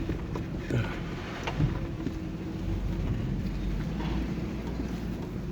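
Engine running steadily, with a few light knocks over it.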